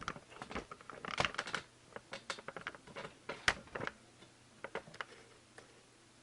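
Hope Pro 2 Evo single-speed trials rear hub's freehub pawls clicking in irregular clusters of sharp ticks, thinning out near the end.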